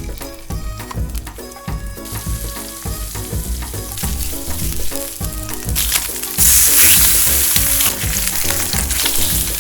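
Food sizzling in a hot frying pan over background music. The sizzle comes in about two seconds in and surges loudest for a moment about two-thirds of the way through.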